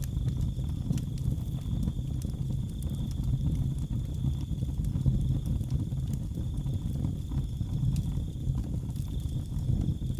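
Wood fire in a fireplace crackling, with scattered sharp pops over a low rumble, and a steady high-pitched cricket trill running through it.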